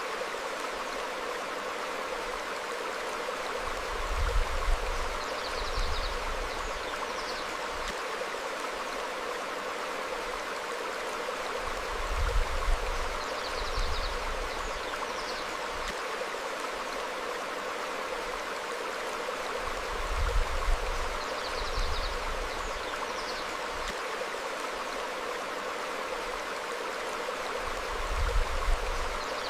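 Stream flowing steadily over rocks. A low rumble comes about every eight seconds, four times, each the loudest moment, with a few faint, high chirps just after each.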